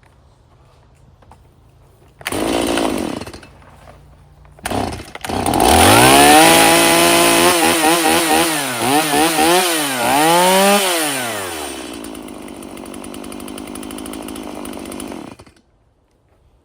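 Stihl MS 170 two-stroke chainsaw being pull-started. It fires briefly, then catches on a second pull and is revved up and down several times. It then drops to idle and cuts off near the end.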